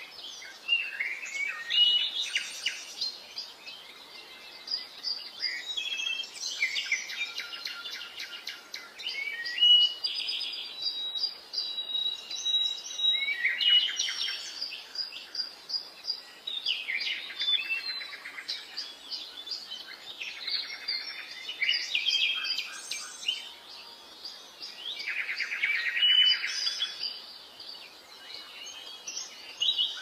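Birds chirping and trilling, several calls overlapping in quick succession, some as fast rattling trills, with brief lulls.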